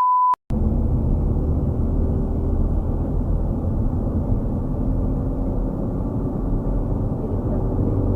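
A brief censor bleep at the very start, then a steady low rumble of a car driving along.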